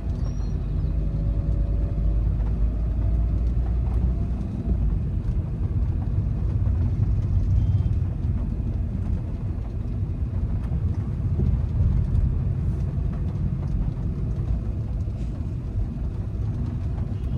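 Cabin noise inside a moving Volkswagen Vento 1.5 TDI in light rain: a steady low rumble of tyres on the wet road and the running engine, swelling slightly a couple of times.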